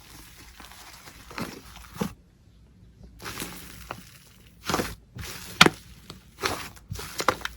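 Slime being squeezed and pressed by hand, giving a run of crisp, crunchy crackles and pops at irregular intervals, with a short lull about two seconds in.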